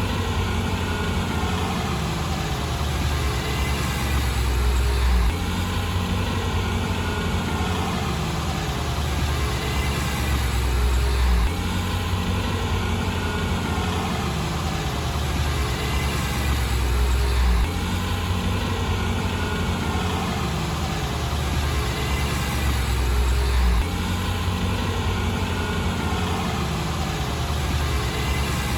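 Heavy diesel engine of earthmoving equipment running steadily with a deep rumble. The same short stretch of sound repeats about every six seconds, each time with a slight swell just before it starts over.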